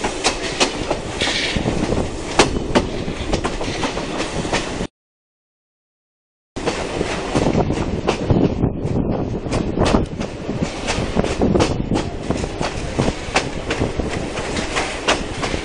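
Passenger carriage of a heritage steam train rolling along the line, heard from an open window. It makes a steady rumble, with the wheels clicking irregularly over the rail joints. The sound drops out completely for about a second and a half a third of the way in, then carries on.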